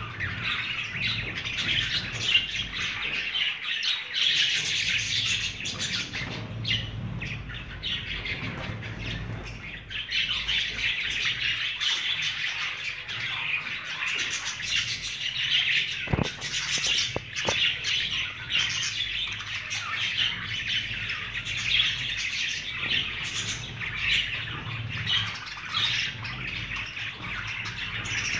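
A flock of budgerigars chirping and chattering together without a break, many overlapping calls at once, over a faint low hum.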